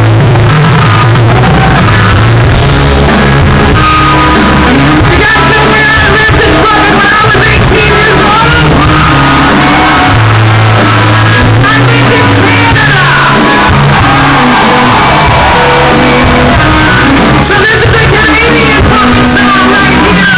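Live rock band with vocals, recorded from the audience and overloaded: loud and distorted, with the level pinned near the maximum.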